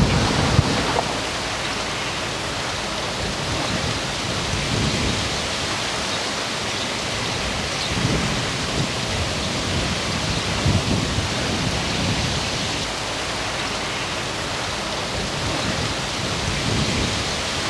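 Wind blowing through the leafy crowns of Chinese fringe trees, a steady rustling hiss of leaves. Low wind buffeting on the microphone comes right at the start and again near the end.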